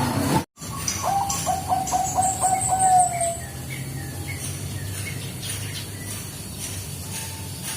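Zebra dove (Bangkok-type perkutut) cooing: after a brief dropout, a quick run of short coos about a second in, ending in one longer drawn-out note, then a quieter stretch. Faint high chirps of small birds sound alongside the coos.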